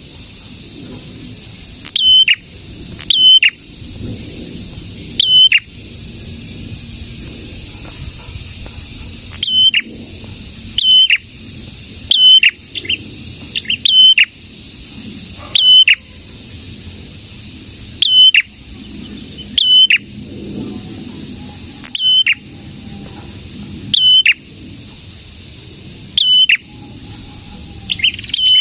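A prenjak, a small Indonesian songbird, calling loudly and repeatedly. Each call is a short high note that drops sharply in pitch, given every second or two, sometimes in quick pairs.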